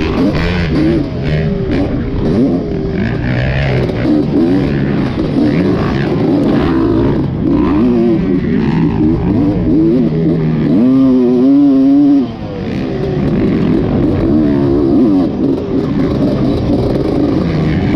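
Dirt bike engines revving up and down as they are ridden on a motocross track, the pitch repeatedly climbing and dropping. A hard rev about eleven seconds in cuts off sharply.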